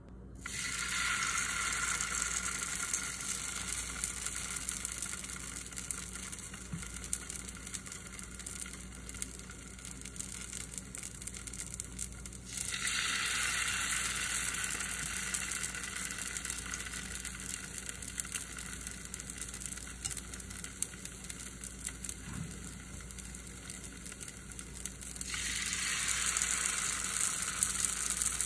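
Batter-coated potato pancakes frying in hot oil in a nonstick pan: a steady sizzle. It jumps louder three times, about twelve seconds apart, as each new pancake goes into the oil, and eases off a little after each jump.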